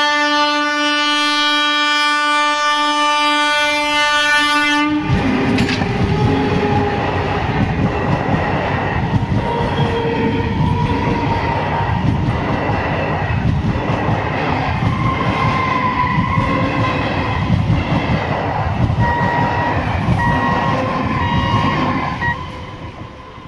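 Indian Railways EMU electric local train sounding one long, steady horn for about five seconds as it approaches, then running past close by with a loud rumble and its wheels clattering over the rail joints. The noise falls away shortly before the end as the last coach passes.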